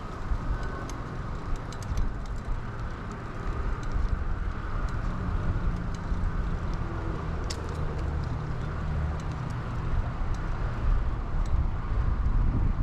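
Bicycle riding noise: a steady low wind rumble on the microphone, with tyre noise and scattered light clicks and rattles from the 2000 Kona Blast mountain bike.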